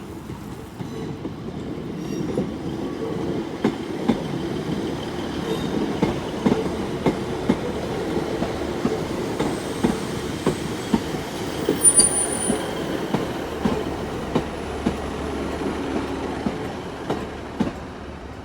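Class 150 Sprinter diesel multiple unit running into the platform, its diesel engines rumbling and its wheels knocking over rail joints. A brief high squeal comes about two-thirds of the way through.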